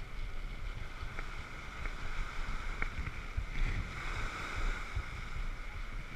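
Wind rumbling on the microphone, with a faint steady higher hum and a few light ticks.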